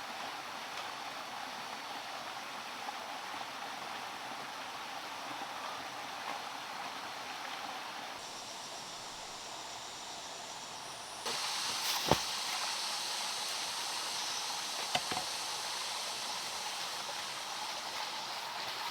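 Steady rush of flowing water. It changes abruptly twice and grows louder and brighter a little past the middle, with a sharp knock soon after and a fainter one a few seconds later.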